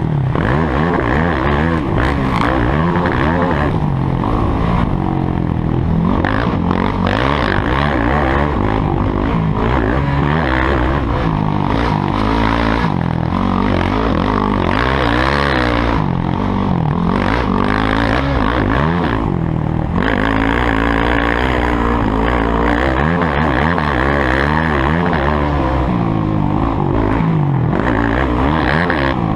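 Motocross motorcycle engines revving on a dirt track, their pitch rising and falling again and again with the throttle, with more than one engine heard at once. Loud and continuous.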